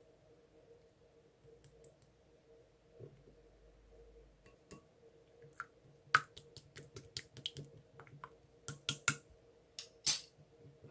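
A run of irregular sharp clicks and taps, starting about five seconds in and getting louder, the loudest just before the end, over a faint steady hum.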